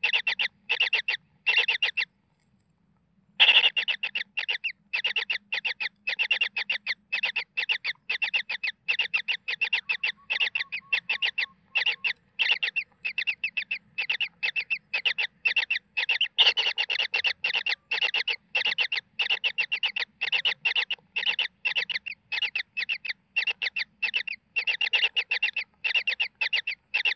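Kingfisher nestlings' begging calls: fast runs of harsh, rapidly repeated chattering notes. They break off for about a second roughly two seconds in, then carry on without pause.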